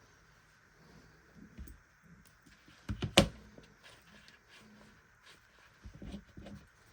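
Scattered small clicks and knocks from hand work on small parts, with one sharp, loud knock about three seconds in and a short run of knocks near the end.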